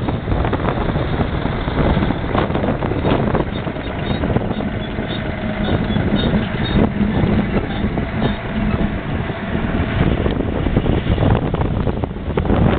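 Versatile tractor's diesel engine running steadily under load while pulling a disk, with heavy wind noise buffeting the microphone.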